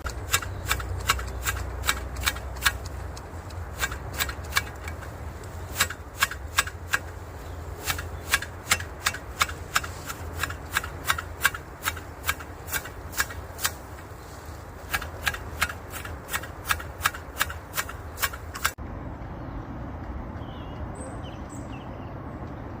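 Sharp snapping clicks, about two to three a second in runs with short pauses, typical of tea shoots being snapped off by hand during picking. About nineteen seconds in the sound cuts to small birds chirping.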